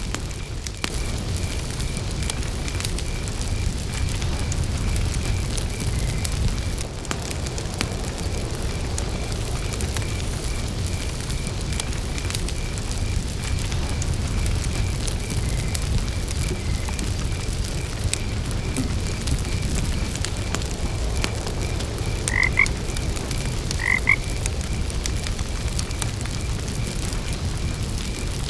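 Campfire burning with a low rumble and faint crackles, under a cricket's steady, evenly pulsed chirping. A frog croaks twice in quick succession near the end, the loudest sounds here.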